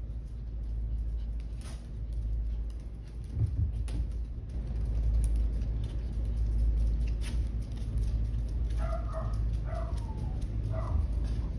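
A dog whimpering in several short, high calls in quick succession, starting near the end, over a steady low rumble and a few scattered clicks.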